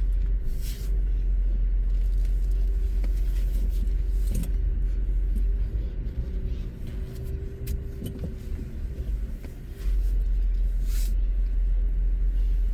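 Car running, a steady low rumble that eases off about six seconds in and comes back strongly just before ten seconds.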